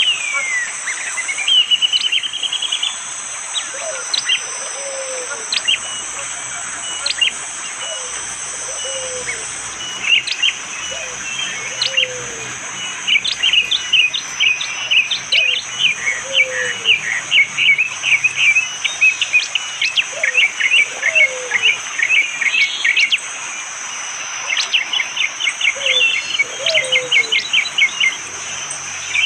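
Prenjak jali songbird calling in fast bursts of sharp, hard chips and rattling trills, thickest in the second half. A low falling two-note call repeats every couple of seconds behind it, over a steady high insect drone.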